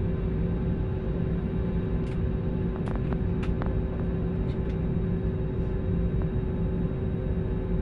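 Airliner cabin noise in flight: a steady rumble of engines and airflow with a constant hum, and a few faint clicks around the middle.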